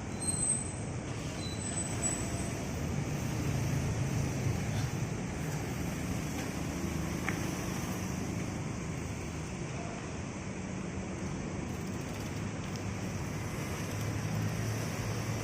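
Steady low engine rumble like distant motor traffic, with faint steady high-pitched tones above it.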